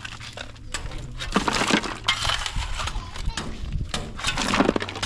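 Concrete being broken up and removed by hand: repeated sharp knocks and the clatter of broken chunks and rubble.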